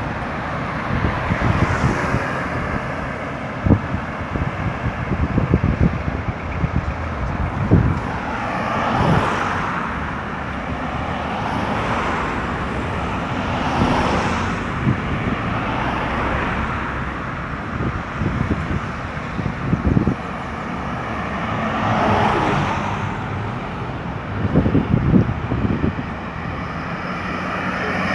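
Road traffic on a busy highway: vehicles passing one after another, each swelling up and fading away over a few seconds.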